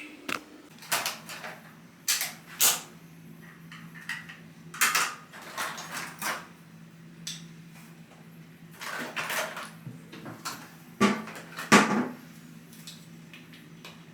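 Dishes and cutlery clattering as they are loaded into a dishwasher: a dozen or so scattered knocks and clinks, a few louder ones near the middle, over a steady low hum.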